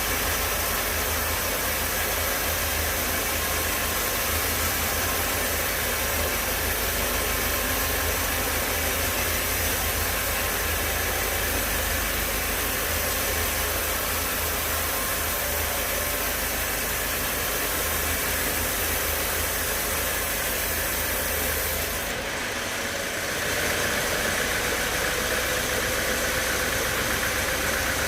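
Sawmill machinery running steadily, a motor-driven saw with a strong low hum. About three-quarters of the way through, the low hum drops away and a higher, steady whine takes over.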